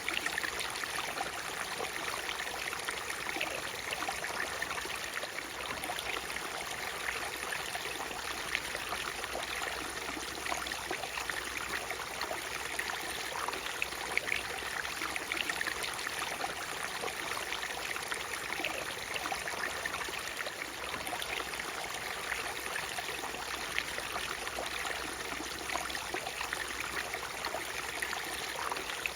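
Waterfall water rushing steadily, with many small splashes and trickles through it.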